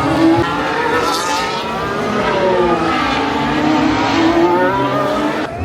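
Several racing cars' engines passing at high revs, their pitch falling and rising as they shift gears and brake and accelerate, with more than one car at once.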